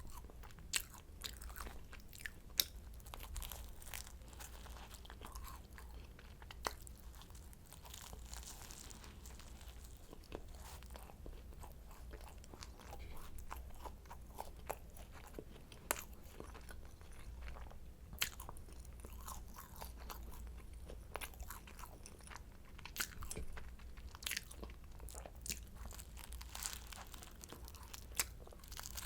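Close-miked eating of a croissant: flaky pastry crackling and crunching in bites, with chewing in between.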